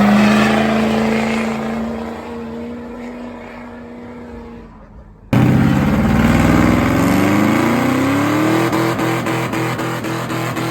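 Truck engine held at high revs, fading away over about five seconds. After a sudden cut, another engine revs up, its pitch climbing for a few seconds, then holds at high revs with a steady pulsing about three times a second, as in a burnout.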